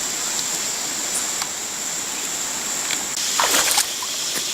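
Steady rush of flowing creek water with a thin high-pitched hiss over it. A brief louder scuffling noise comes a little after three seconds in.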